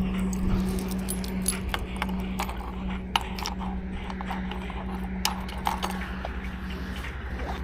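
Motorcycle engine running at a steady note, with scattered sharp clicks and jingling rattles on top. The steady note fades out about seven seconds in.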